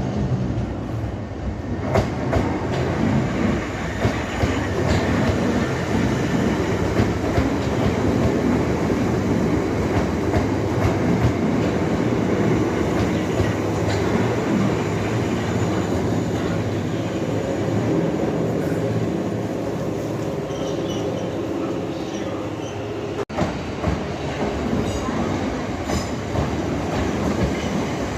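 Southern Class 377 Electrostar electric multiple unit running into a station platform, with a steady rumble and clatter of wheels on the rails. Short high squeals of wheels or brakes come in over the second half.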